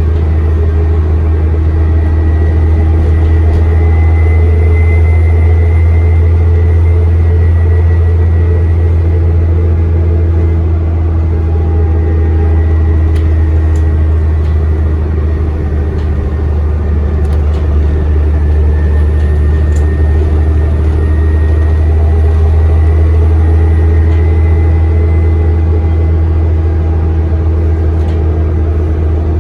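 Interior sound of a Dennis Trident double-decker bus under way: a steady low engine and drivetrain drone, with a faint high turbocharger whistle that rises and falls twice. A few light rattles and clicks come through near the middle.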